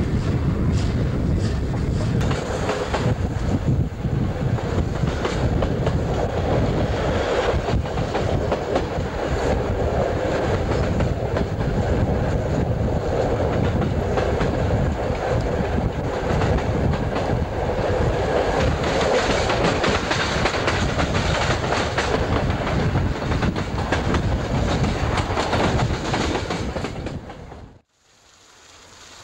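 Steam-hauled train riding along jointed track, heard from an open carriage window: wheels clicking over the rail joints over a steady rumble and wind. It cuts off suddenly near the end, and quieter rushing water from a water crane filling a locomotive's tender rises in its place.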